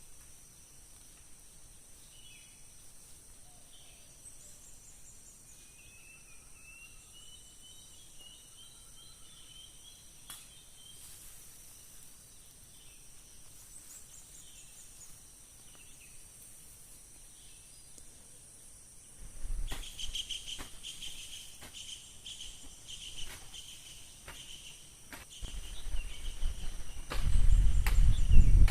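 Forest ambience: a steady high insect drone with scattered bird chirps. About two-thirds of the way in, close-by knocks and rustling start, growing louder near the end.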